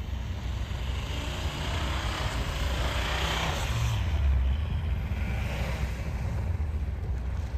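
A car's engine running steadily under load, with a rushing noise that swells and fades in the middle.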